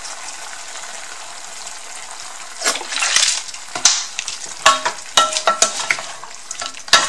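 Chicken bones frying in a pan, a steady sizzling hiss. From about two and a half seconds in, a spatula stirs and scrapes through them, knocking against the pan several times with short metallic rings.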